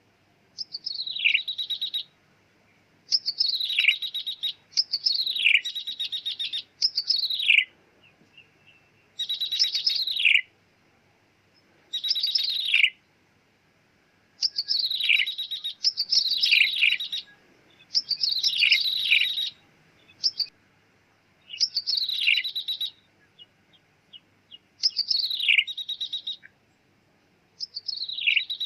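Ciblek tebu (a prinia) calling in repeated short phrases, each a fast buzzy trill with a mewing note that slides down in pitch, with brief pauses between phrases.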